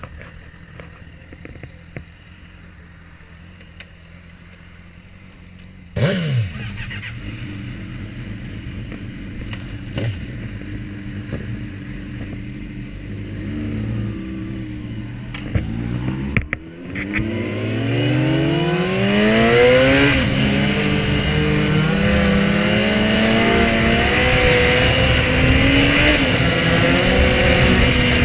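Sport-bike inline-four engine starting with a sudden bark about six seconds in and settling to idle, revved briefly a few times, then pulling away with rising revs and running steadily at road speed, its loudest part near the end.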